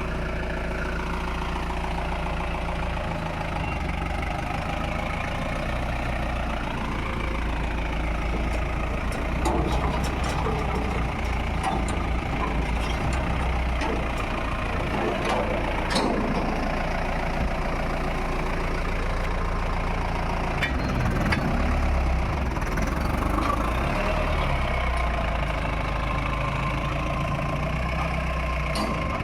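Mahindra pickup truck's engine running steadily with a low hum, with a few light clicks or knocks partway through.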